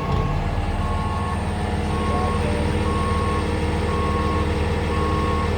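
Catering truck's diesel engine running with the PTO driving the hydraulics as the stabilizer feet lower, a steady hum with a faint high whine. A warning beeper sounds about once a second over it.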